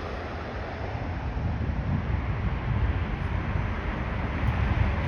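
Jet airliner engine noise fading as the aircraft passes, with wind buffeting the microphone.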